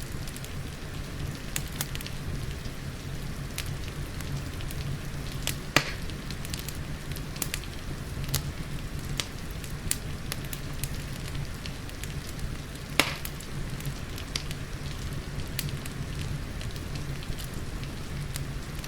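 Fireplace crackling, with frequent small snaps and two louder pops about 6 and 13 seconds in, over a steady hiss of rain.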